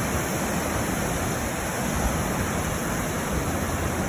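Steady rush of water from a waterfall and river, an even noisy hiss without breaks.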